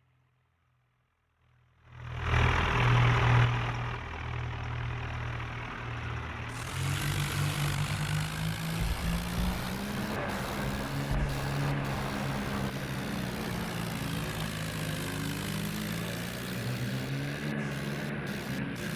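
Tractor engine running. It comes in suddenly about two seconds in, is loudest for a second or so, then runs steadily with a slightly wavering pitch.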